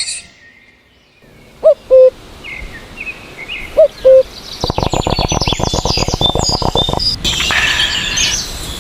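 Outdoor birdsong: two loud calls about two seconds apart, each a short rising note that levels into a held tone, then high chirping near the end. Between them comes a rapid, even mechanical rattle of about twelve strokes a second, lasting a couple of seconds.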